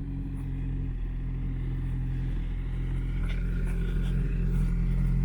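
Dacia car engine running through an FI aftermarket exhaust: a steady low drone that steps up a little in pitch about two seconds in and grows slightly louder toward the end.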